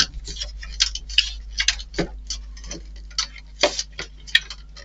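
Irregular light clicks and taps of small model-kit parts and tools being handled, about a dozen, unevenly spaced, over a faint steady hum.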